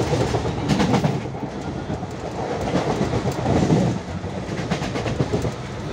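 Mumbai suburban local train running at speed, heard from inside a packed coach: a steady rumble of wheels on rails, with a few sharp clacks about a second in.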